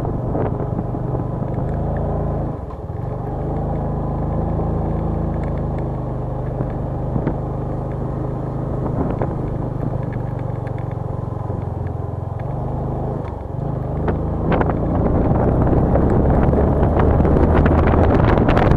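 A vehicle engine running steadily on the move, with a noisy rush over it; the engine note drops out briefly twice, about two and a half seconds in and again about thirteen seconds in.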